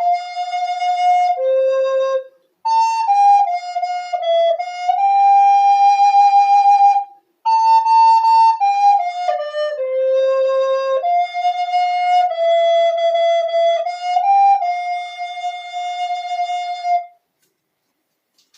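A single flute-like wind instrument plays a slow hymn melody unaccompanied, in stepwise notes. It plays three phrases with short breath gaps between them, holds a final note and stops about seventeen seconds in.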